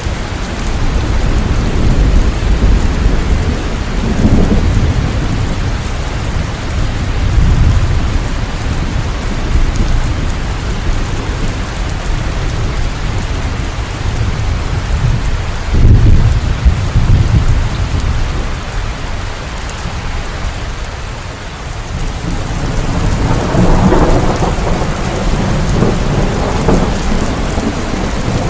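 Steady rain with low rumbles of thunder swelling and fading several times, the loudest about sixteen seconds in and another long roll near the end.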